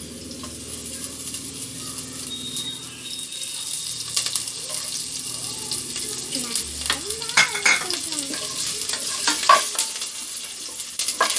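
A South Indian tempering of mustard seeds, urad dal, green chilli, ginger and curry leaves sizzling in hot oil in a non-stick pot. A spatula is stirring and scraping against the pan, with the scrapes and knocks coming more often in the second half.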